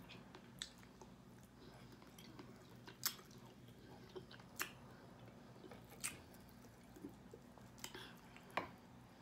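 A person eating chicken wings with their hands: quiet chewing and wet mouth smacks, with a sharp click every second or two, about six in all.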